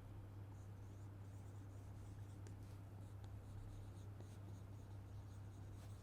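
Faint scratching and tapping of a pen or marker writing on a board, over a steady low electrical hum.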